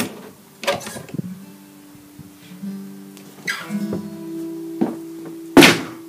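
A guitar played slowly, single notes plucked one after another and left ringing so they overlap, with a sharp knock near the end.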